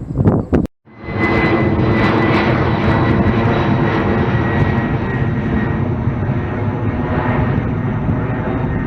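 Wind buffeting the microphone for under a second, cut off abruptly, then a jet airliner passing close by: loud, steady engine noise with a high whine that slowly fades.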